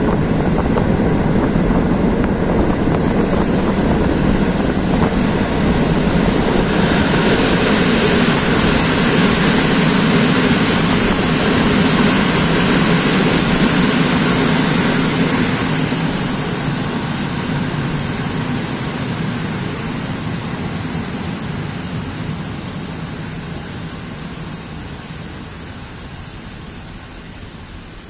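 Passenger train running noise heard through an open carriage window: wheels on the rails and the rush of air. It grows louder and hissier for several seconds while passing close alongside a red-and-white electric multiple unit on the next track, then fades steadily over the last dozen seconds as the train slows into the station.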